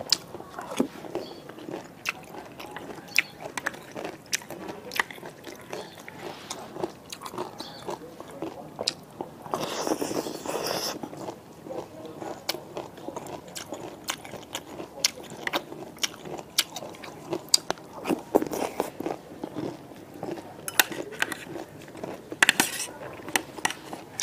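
Close-miked chewing and crunching of cauliflower and broccoli florets from a spicy noodle soup, with many sharp crunch clicks and a longer noisy stretch about ten seconds in.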